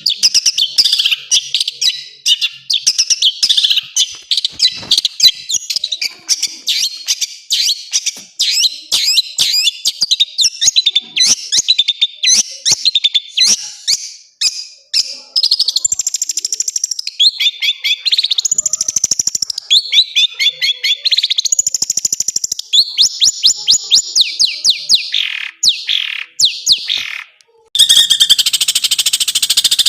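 Long-tailed shrike (cendet) singing a fast, varied song of high chattering notes, trills and rising and falling whistles, packed with mimicked calls of other birds. About 28 seconds in the song breaks off for a moment and a dense buzzy chorus follows.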